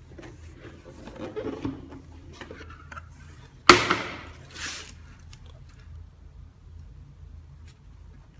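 Sneakers and their packaging being handled during an unboxing: soft rustling, then one sharp knock about three and a half seconds in and a softer scrape just after it.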